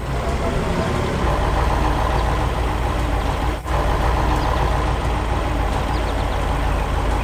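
Heavy diesel engine of a construction vehicle running steadily, with a brief dip about three and a half seconds in.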